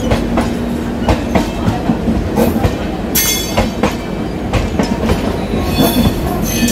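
Two passenger trains running side by side on parallel tracks, heard from an open coach doorway: a steady rumble with wheels clacking irregularly over rail joints. Brief high wheel squeals come about three seconds in and again near the end.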